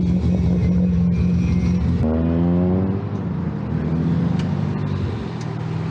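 Rally car engine running at a steady fast idle; about two seconds in the sound cuts to another rally car engine that revs up briefly and settles back to idle.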